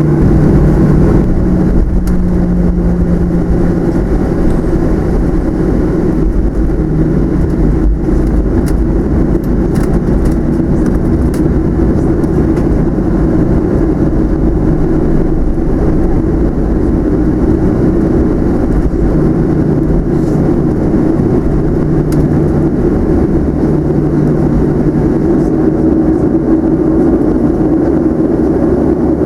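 Jet engine and airframe noise heard inside the cabin of a Boeing 737-700 with CFM56 engines: a loud, steady low drone, with a low hum that fades in and out.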